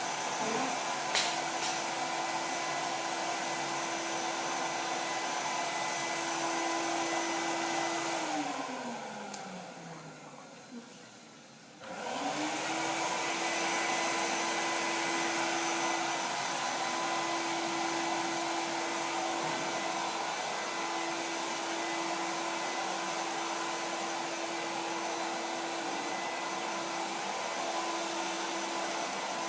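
Vacuum cleaner motor running with a steady whine. About 8 s in it is switched off and winds down in pitch. About 12 s in it is switched back on, spins up and runs steadily again.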